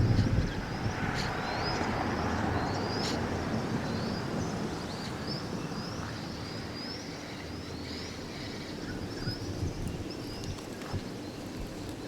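Birds chirping over a low rumble: short rising chirps repeat about once or twice a second throughout. The rumble is loudest at first and dies down within the first second.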